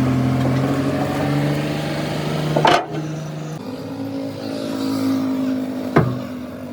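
An engine running steadily, its pitch shifting slightly about three and a half seconds in, with two sharp knocks, one a little under three seconds in and one near the end.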